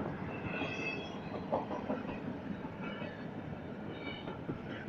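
Freight train's intermodal well cars rolling past at a grade crossing: a steady rumble and clatter of steel wheels on rail, with brief high wheel squeals several times.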